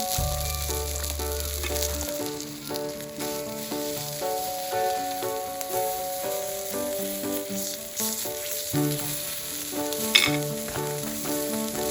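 Food sizzling in a hot sandwich maker, under background music with steady notes. A brief sharp sound stands out about ten seconds in.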